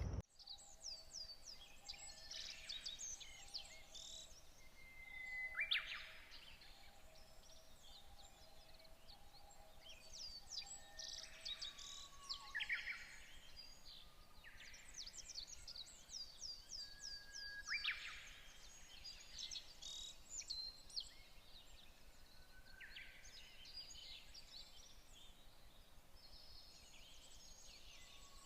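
Several birds singing and calling: quick runs of falling high chirps and sharp short notes, coming in clusters every few seconds. A faint, evenly repeated low note sounds through the first half.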